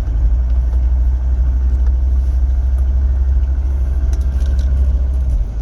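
Mercedes 300D five-cylinder diesel engine running shortly after a cold start, heard from inside the cabin as a steady low rumble.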